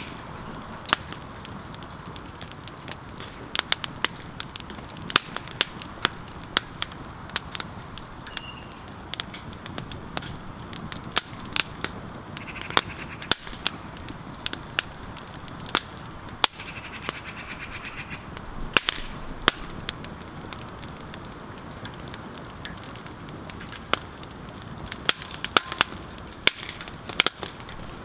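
Campfire crackling: irregular sharp pops and snaps, several a second at times, over a steady hiss from the fire.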